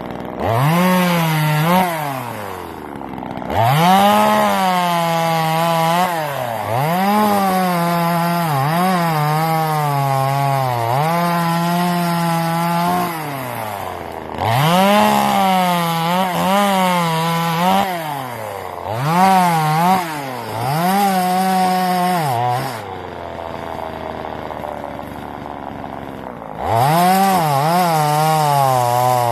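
Two-stroke gas chainsaw revving up and cutting through wood in repeated bursts, its pitch sagging under load. It drops back to idle for a few seconds near the end, then revs up and cuts again.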